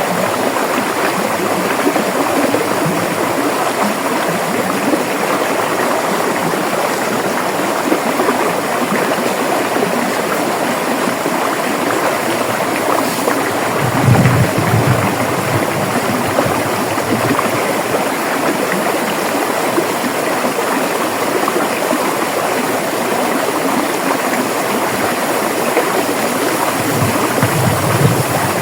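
River water flowing steadily over rocks, a continuous rushing and gurgling, with a deeper surge of water about halfway through and again near the end.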